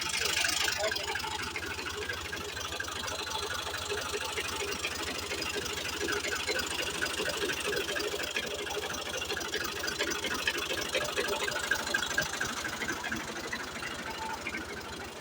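Vehicle engine running steadily with a fast, even clatter.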